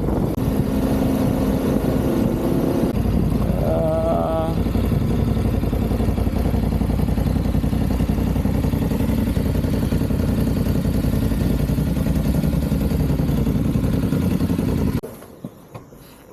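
Motorcycle running at a steady riding speed, with the engine and wind rushing past. It cuts off abruptly near the end.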